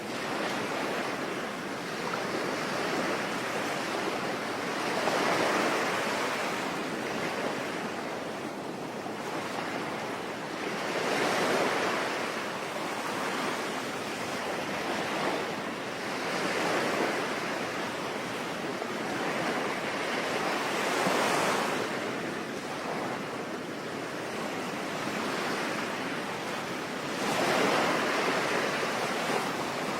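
Sea waves washing ashore in a slow rhythm, a swell about every five to six seconds, over a steady hiss of rain.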